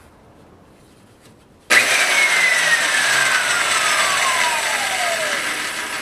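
Stark 16-inch concrete saw switched on with no blade fitted, starting suddenly about two seconds in and running loudly, with a whine that falls steadily in pitch. It is run briefly to see which way the arbor turns.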